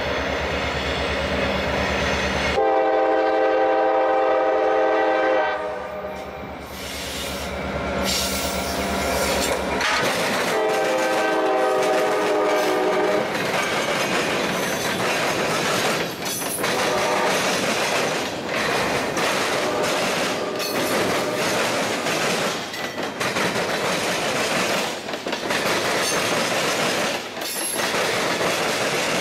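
CSX freight train passing close by: the diesel locomotive's engine drones low as it goes past and its horn sounds two long blasts, about three seconds in and again about ten seconds in. The freight cars follow with a steady clickety-clack of wheels over rail joints.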